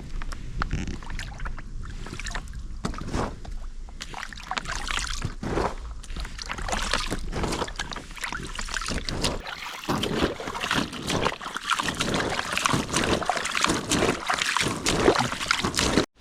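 Water splashing and sloshing in quick, irregular strokes, getting busier after about four seconds.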